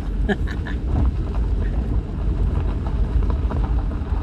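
Vehicle driving slowly over a bumpy, unpaved road, a steady low rumble with a few brief scrapes or knocks about half a second in.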